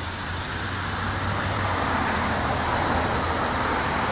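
MARC commuter train approaching: a rumble with a steady low hum that grows gradually louder.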